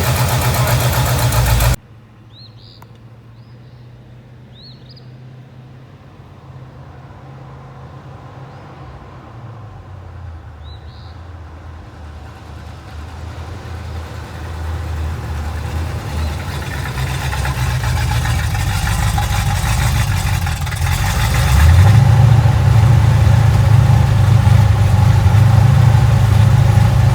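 Chevrolet 350 small-block V8 in a 1968 El Camino idling loudly, then cut off abruptly after about two seconds. It is then heard again faintly, getting steadily louder as it approaches, and is loud and close near the end.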